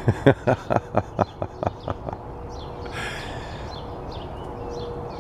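A quick run of about ten sharp knocks or taps, fading over the first two seconds. Faint, short bird chirps follow.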